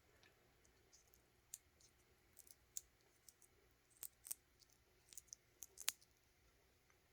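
A small glass nail polish bottle being handled and tapped, giving faint, irregular light clicks, a few of them sharper, the sharpest about six seconds in.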